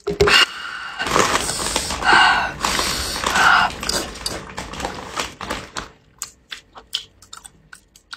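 Close-miked biting and chewing of a thick piece of pork intestine. Dense, noisy biting sounds for the first few seconds, then slower, softer chewing clicks near the end.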